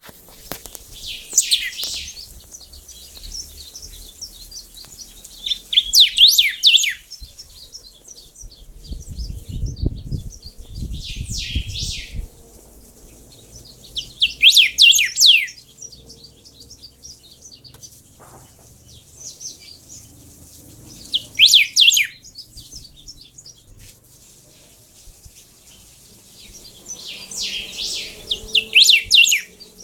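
A hybrid rey del bosque × chiviro verde songbird singing in about six short phrases of quick, high notes that slide downward, with pauses of a few seconds between phrases. A low rumble sounds under the phrase about a third of the way in.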